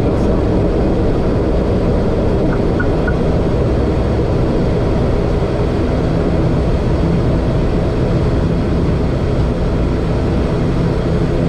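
Steady, loud rumble of airliner cabin noise from the engines and airflow, heard on the flight deck.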